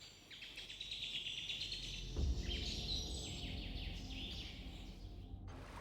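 Wild birds chirping and twittering in a rapid, busy chorus over a faint low rumble, with a soft thump about two seconds in; the chirping stops abruptly near the end.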